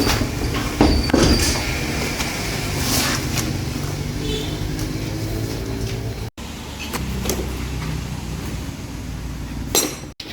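Workshop repair noise: sharp metal knocks and clanks over a steady low hum. The sound cuts out abruptly twice, once in the middle and once near the end.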